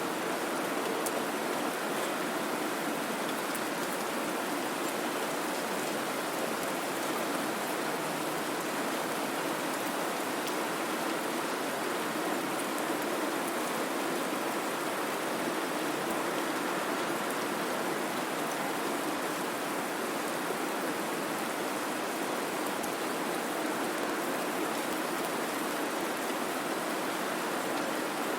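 Steady white noise, an even unbroken rushing sound.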